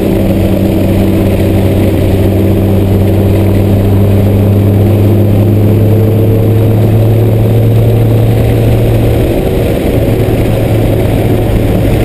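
Car engine running at a steady, sustained pitch, mixed with tyre and road noise, heard from inside the cabin while driving. About nine seconds in, the lowest note drops away and the engine tones shift slightly.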